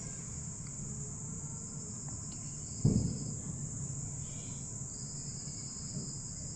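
Steady, high-pitched trilling of insects, with a second trill coming and going, and a single dull thump about three seconds in.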